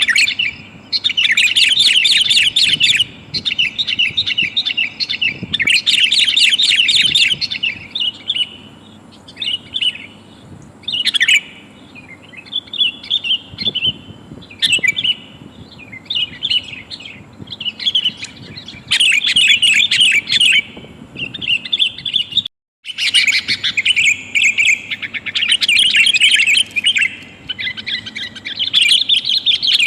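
Sooty-headed bulbul calls: loud runs of rapid chattering notes alternating with scattered single call notes, a female calling to males. The sound breaks off for an instant about two-thirds of the way through.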